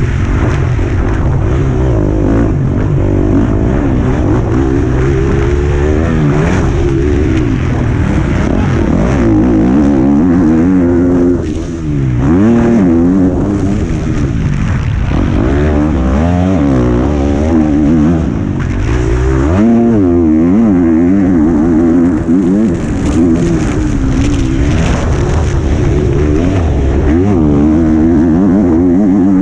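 Motocross bike's engine heard onboard while ridden hard round the track, revs rising and falling again and again with throttle and gear changes. The throttle briefly closes about eleven seconds in and again around eighteen seconds.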